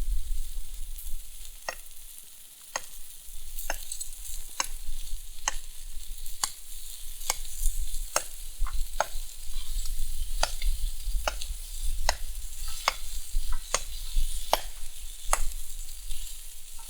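Bacon-wrapped chicken poppers sizzling on a seasoned Biji hotplate over a campfire, with wind rumbling on the microphone. Sharp knocks come at a steady pace of a little more than one a second, from firewood being prepared for the fire.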